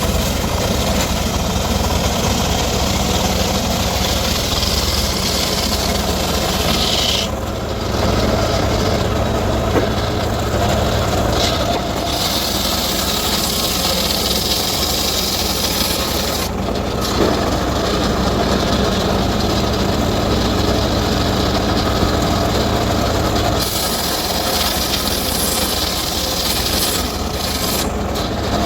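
Circular saw running and cutting teak wood, a steady loud machine sound with a hissing cut on top. The high cutting noise breaks off briefly a few times and then comes back, as the blade leaves the wood and enters again.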